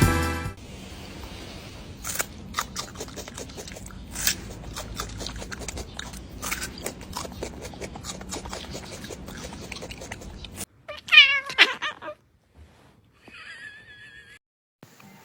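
A cat meowing: a loud, wavering yowl about eleven seconds in, then a fainter wavering meow. Before that come low rustling and scattered clicks.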